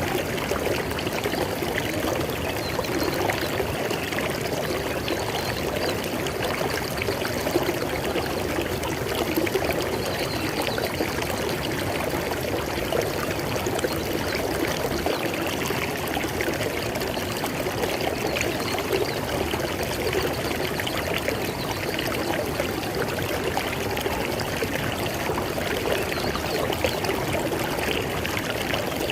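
River water flowing over rocks: a steady rushing and splashing, even throughout.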